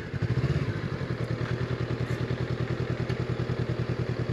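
Honda CB500X's parallel-twin engine idling with a steady, even pulse.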